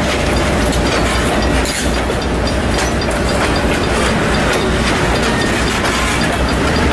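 Freight train of open-top hopper cars rolling past, steel wheels rumbling steadily with repeated clicks as the trucks cross rail joints.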